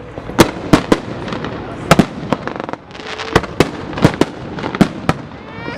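Fireworks going off: a dozen or so sharp bangs at irregular intervals over a steady crackling hiss.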